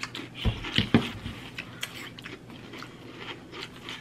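Crunching and chewing of breakfast cereal eaten with spoons from bowls, with a few sharp crunches between about half a second and one and a half seconds in, then quieter chewing.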